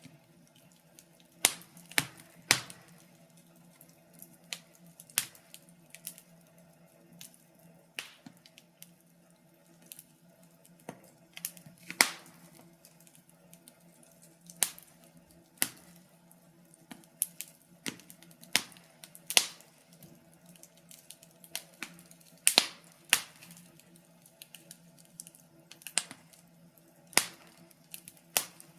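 Wood fire crackling: irregular sharp pops and snaps, one or two a second, with a few louder snaps, over a faint steady low hum.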